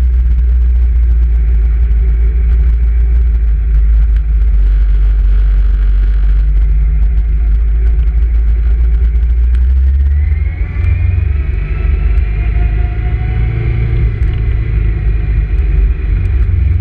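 Motorcycle engine running while riding, under a loud wind rumble on the GoPro's microphone. About ten seconds in, the engine note rises as it speeds up.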